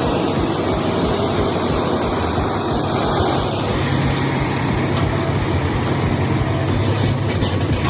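Heavy vehicle engine running steadily, with a low, even drone and wide mechanical noise.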